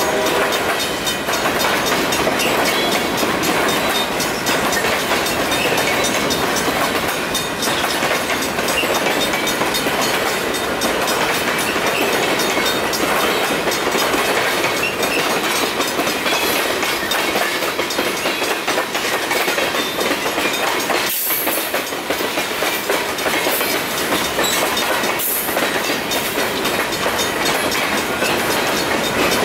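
Freight cars rolling through a railroad grade crossing, their wheels clattering steadily over the crossing and rail joints. The crossing's warning bell rings along with the train.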